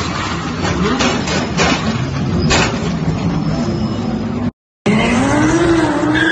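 Car engines running hard with loud wind and road noise. The sound breaks off about four and a half seconds in, then an engine is heard revving, its pitch rising and falling.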